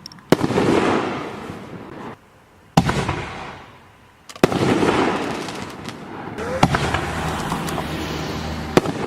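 5-inch consumer canister firework shells bursting one after another: four sharp reports a second or two apart, each followed by a long fading hiss, with smaller cracks among them. The sound cuts off suddenly at the very end.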